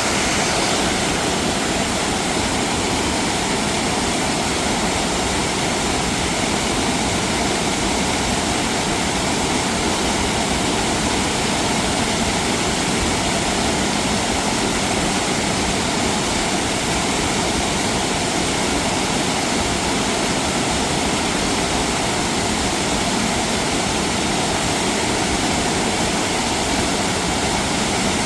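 Loud, steady rush of falling water from a mountain waterfall.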